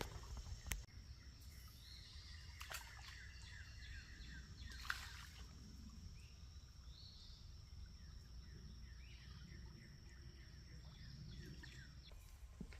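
Faint outdoor ambience: small birds chirping in quick short calls over a steady high-pitched tone and a low rumble, with a few sharp clicks.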